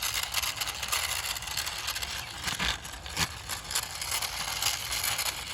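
Wheels of an eight-wheeled toy tank truck rolling and scraping over a rough surface as it is pushed along by hand: a steady scraping noise with many small clicks.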